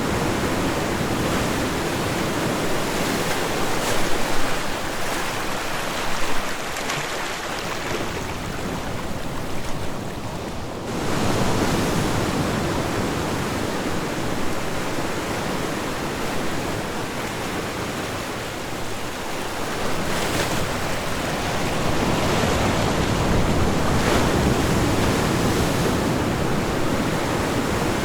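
Ocean waves breaking and washing on a shore, a steady surf that swells and eases every few seconds, with wind on the microphone.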